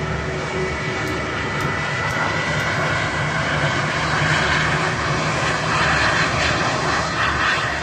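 Airbus A319 airliner's jet engines at taxi power as it rolls past close by: a steady rushing noise with a thin whine, growing louder over the last few seconds.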